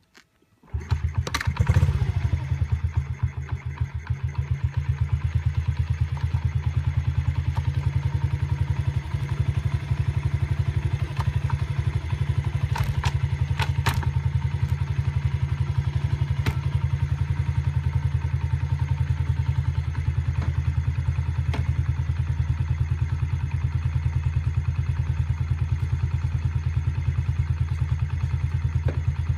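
Dirt bike engine starting about a second in, revving briefly, then settling into a steady, rapidly pulsing idle.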